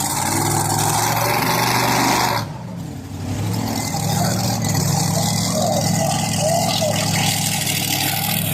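Two-wheel-drive pulling truck's engine running loud at high revs, dropping away sharply about two and a half seconds in, then picking back up.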